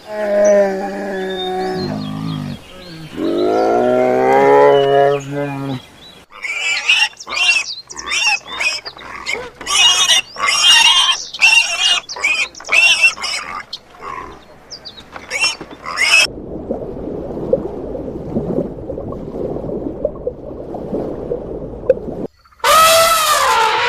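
A run of different animal calls: long drawn-out low calls, then many short high-pitched calls in quick succession, then about six seconds of rough, unpitched grunting noise, and a loud high call starting near the end.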